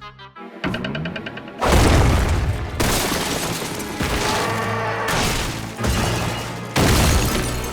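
Cartoon soundtrack: music punctuated by a series of sudden loud booms and crashes, the biggest about two seconds in and again near the end.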